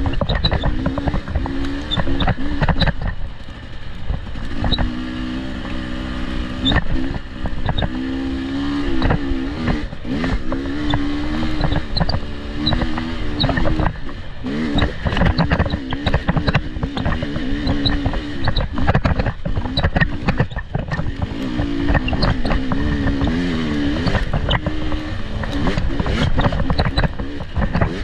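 Off-road vehicle engine running under changing throttle, its pitch rising and falling again and again, over a low rumble with frequent short knocks and clatter.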